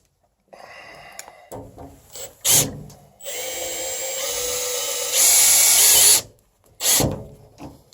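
Power drill driving screws to fasten pads onto the bottom of a furnace cabinet: a short burst, then a run of about three seconds that gets louder for its last second, then another short burst near the end.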